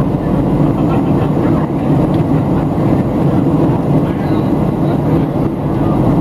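Steady cabin noise inside a Boeing 737-700 in flight: the hum of its CFM56-7B engines and airflow past the fuselage, even and unbroken.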